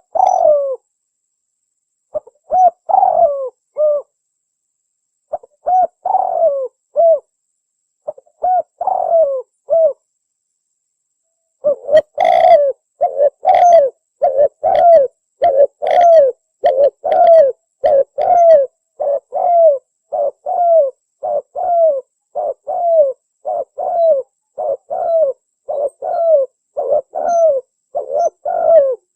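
Spotted dove cooing: short phrases of three or four coo notes every few seconds, then from about twelve seconds in an unbroken run of coos, roughly one and a half a second.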